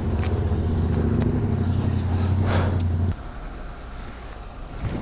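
Motorcycle engine idling steadily, then switched off abruptly about three seconds in.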